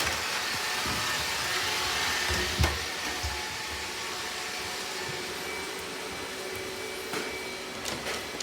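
Robot vacuum running steadily, its suction fan and brushes giving an even hiss. A single thump about two and a half seconds in, and a few light clicks near the end.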